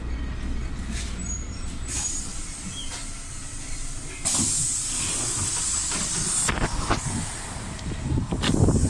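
PAZ 320414-04 city bus: a low rumble of engine and road, then about four seconds in a loud hiss of released compressed air from the bus's pneumatic system. The hiss lasts about two seconds and cuts off sharply, and a few knocks follow near the end.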